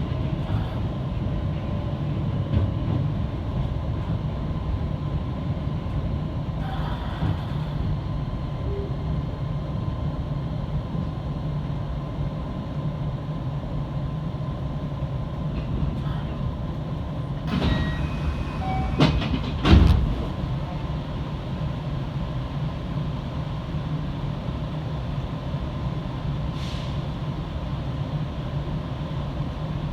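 Electric commuter train running with a steady low rumble, with a faint steady whine. Partway through comes a short cluster of sharp clicks and knocks, the loudest of them a single thump.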